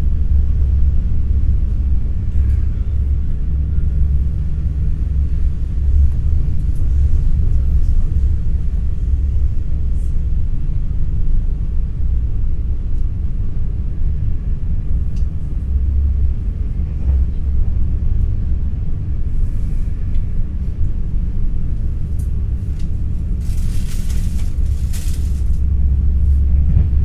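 Steady low rumble of an NS ICNG intercity electric train running, heard from inside the passenger car, with a short burst of hiss near the end.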